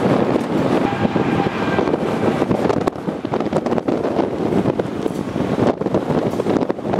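A car driving at speed: steady road and wind noise, with wind buffeting the microphone.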